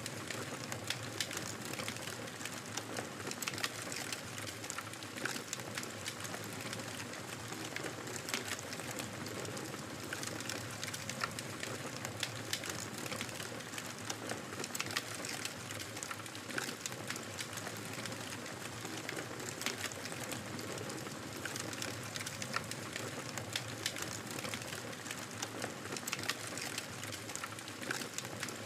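Fire crackling in a fireplace: a steady hiss with frequent small sharp pops and snaps scattered throughout.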